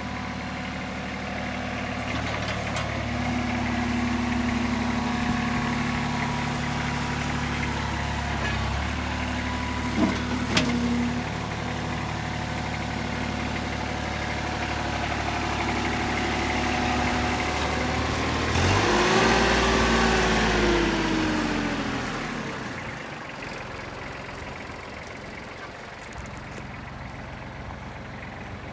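Kubota B21 backhoe's diesel engine running, its note shifting a few times, with a sharp click about a third of the way in. About two-thirds through, the engine gets louder and its pitch slides down, and it runs quieter after that.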